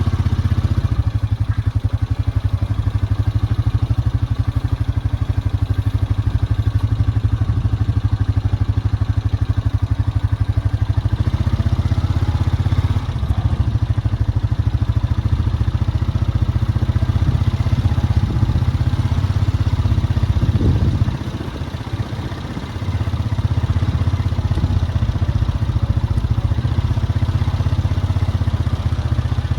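Vehicle engine running steadily with a low, evenly pulsing note; it drops briefly about twenty-one seconds in, then picks back up.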